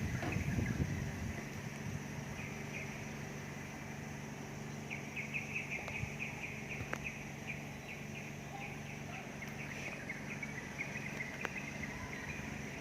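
Birds chirping in quick, short repeated notes, thickest from about five seconds in, over a steady low hum and a steady high insect-like drone; a low rumble sounds in the first second.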